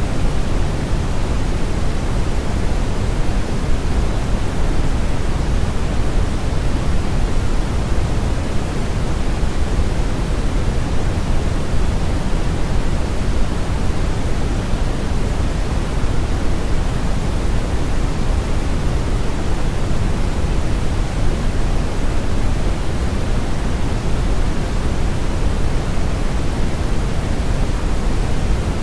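Steady brown noise, a continuous, even hiss weighted heavily toward the low end, like a deep rushing roar. It does not change.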